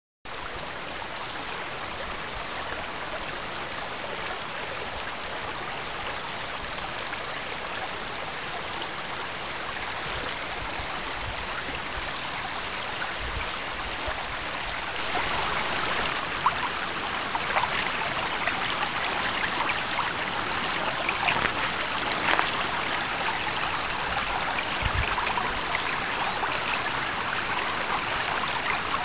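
Spring snowmelt stream running down a small waterfall: a steady rush of water that grows louder about halfway through. A few clicks and a brief high trill come about two-thirds in.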